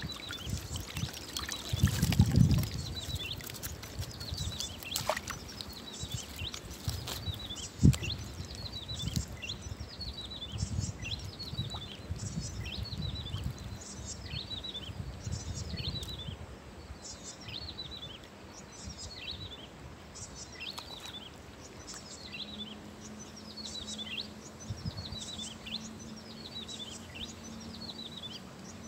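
A bird repeatedly gives short falling calls, about one a second, over low splashing and sloshing of river water as a wader handles a cast net and fish. There is a loud splash about two seconds in and a sharp knock a few seconds later.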